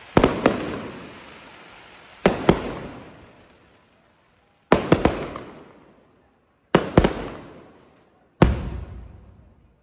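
Aerial fireworks shells bursting, very loud: sharp bangs come in five volleys about every two seconds, several as quick doubles or triples, each followed by a long rumbling echo that fades away.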